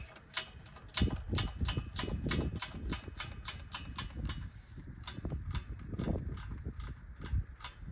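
Hand wrench clicking rapidly as it is worked back and forth on a nut, several irregular clicks a second.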